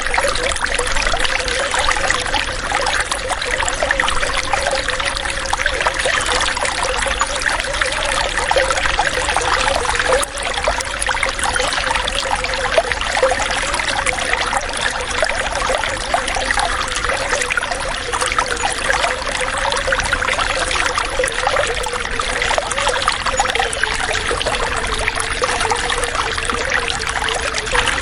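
Flowing water running steadily, a continuous trickling hiss dotted with many small splashes and gurgles.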